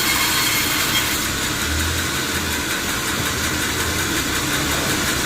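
Sawmill machinery running steadily: a continuous mechanical hum with an even hiss over it, no cut or impact standing out.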